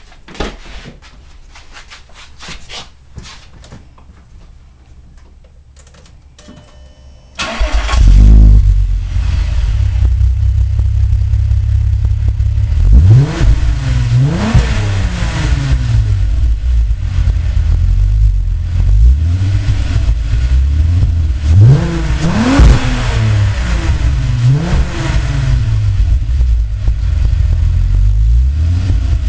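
Volkswagen Jetta VR6 engine started through a universal aftermarket muffler on otherwise stock exhaust piping, after a few quiet seconds of small clicks. It then idles and is revved several times, the pitch rising and falling with each blip.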